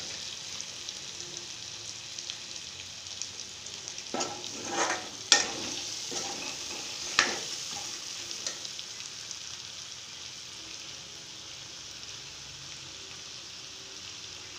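Pork and potato curry sizzling in an aluminium kadai, cooked dry with no water added, so it has begun to stick to the pan. A steel ladle scrapes and knocks against the pan a few times between about four and nine seconds in.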